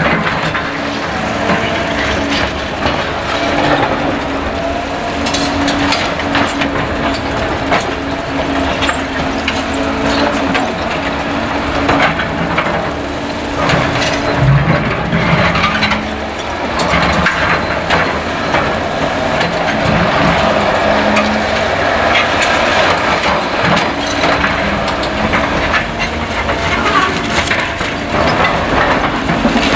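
Caterpillar excavator diesel engines running and changing pitch as they work, with frequent sharp cracks, knocks and crunching from demolition debris being broken and crushed.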